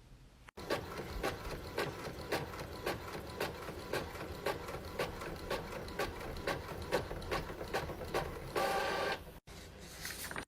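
Home printer printing a page: a steady run of mechanical clicks about twice a second, with a louder burst of noise near the end before it stops.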